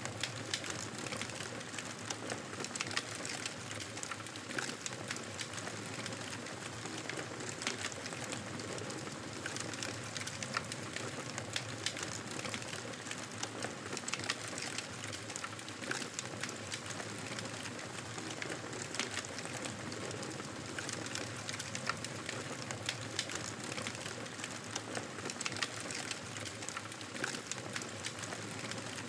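Campfire burning steadily, wood crackling with frequent irregular sharp pops over a soft hiss of flames.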